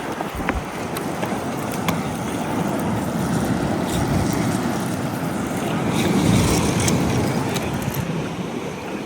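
Steady rush of wind and surf, swelling about six seconds in, with a few faint clicks.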